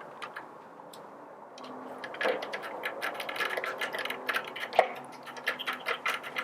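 Rapid, irregular small clicks of hand tools and screws as the screws holding the grinder's upper casting are started. The clicks begin about a second and a half in, come several a second, with a couple of louder knocks among them.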